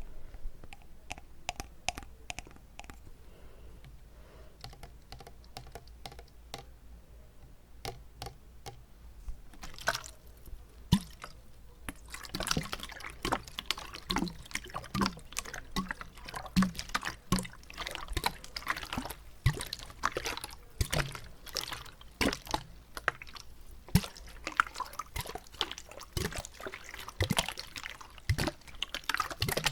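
Close-up wet mouth sounds: many small wet clicks and smacks, sparse at first and coming thick and fast from about a third of the way in.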